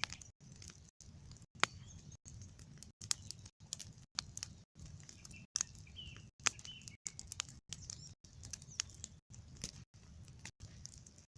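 Small bonfire crackling, with frequent sharp pops, as it burns down. Small birds chirp a few times.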